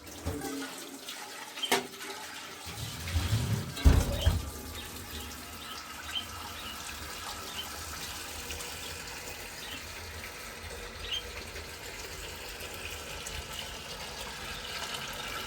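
Steady rush of running water, with a couple of sharp knocks in the first four seconds.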